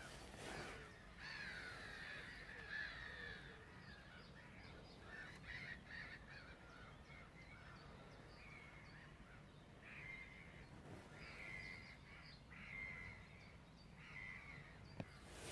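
Wild birds calling, a steady run of short, harsh, repeated calls, faint against the outdoor background.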